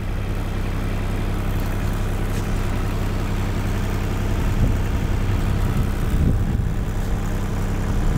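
Strong wind buffeting the microphone: a steady low rumble that swells a little around four and a half and six seconds in.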